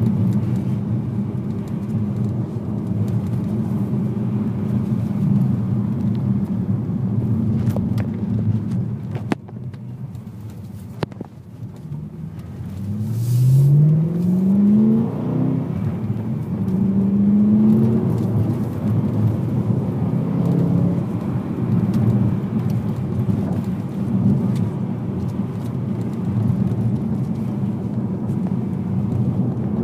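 BMW M3 engine heard from inside the cabin, running steadily under load. About ten seconds in it drops quieter for a couple of seconds, then rises sharply in pitch as the car accelerates out of a tight bend, and settles back to a steady drone.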